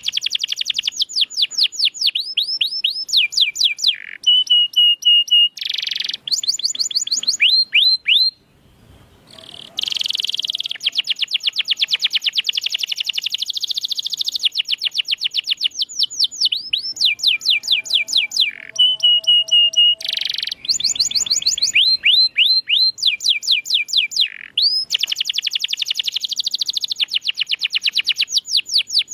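Domestic canary singing a long, fast song of rapid trills and rolls: runs of quick repeated sweeping notes at changing speeds, with a short pause about eight seconds in.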